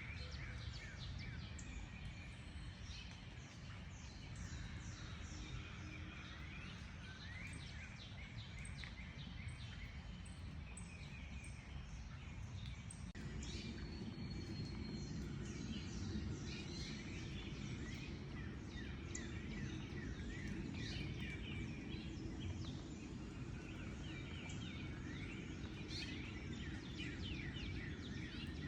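Several small birds chirping and singing at once, in many short overlapping calls, over a steady low background noise that grows fuller about halfway through.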